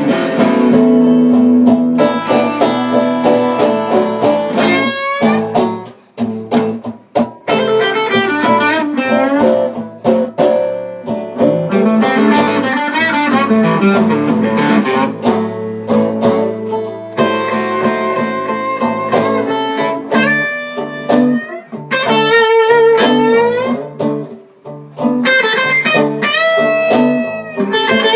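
Blues guitar playing an instrumental break: picked and strummed phrases over a steady bass, with bent notes sliding up in pitch through the second half.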